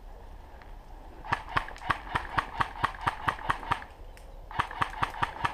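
Airsoft gun firing a rapid string of shots, about six a second, in two runs with a short pause a little before four seconds.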